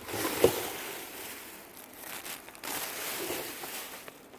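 Rustling as dresses are handled and moved about in a cardboard box, with a short knock about half a second in.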